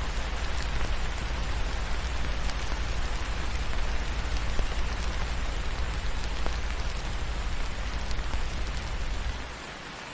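Steady rain with scattered drop ticks, over a deep low rumble that drops away about nine and a half seconds in, leaving the rain alone and quieter.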